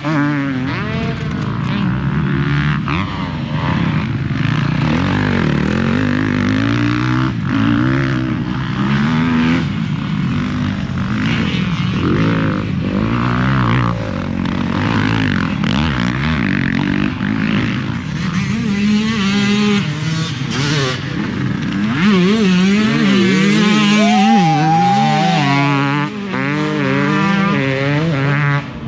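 Motocross dirt bikes racing on the track, their engines revving up and dropping again and again as the riders work the throttle through the corners and jumps. The bikes are loudest about 22 seconds in.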